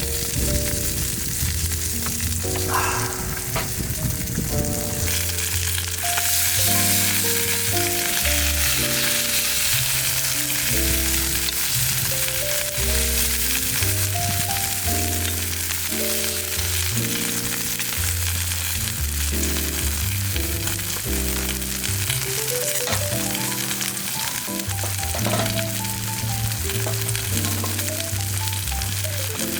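Marbled beef steak sizzling on a hot iron griddle plate, with a steady hiss that grows louder about five seconds in. Background music plays underneath.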